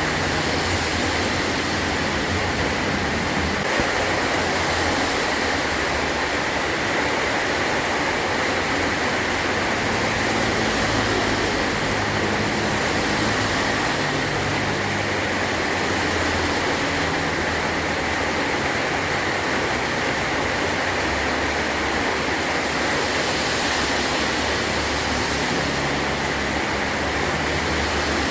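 Heavy rain drumming steadily on a metal roof, an even hiss with no pauses.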